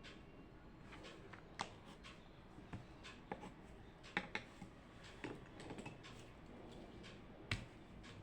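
Faint desk-work sounds in a quiet small room: scattered, irregular light clicks and taps, the sharpest one near the end.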